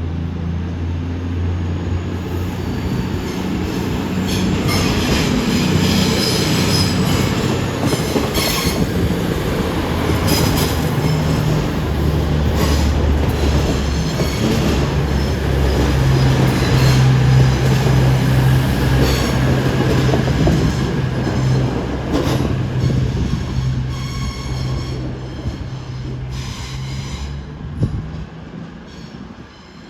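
A train passing through the station, with a steady low engine drone and wheels clattering over the rail joints. It grows louder to a peak around the middle and fades near the end.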